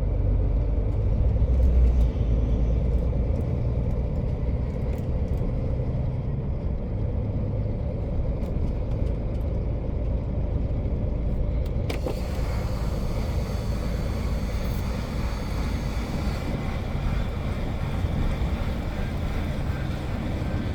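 Heavy truck driving on the highway: steady diesel engine and road rumble from the cab. About twelve seconds in there is a sharp click, and then a louder hiss.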